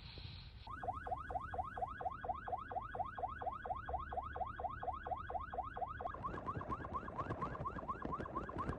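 Car alarm going off: a rapid warbling chirp repeating about four or five times a second, switching to a different, higher chirp pattern about six seconds in, with a rushing noise underneath from then on.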